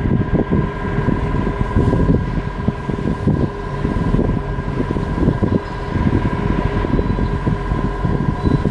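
Ship's diesel engine running steadily at a loud level, a rough low rumble with a constant high whine over it.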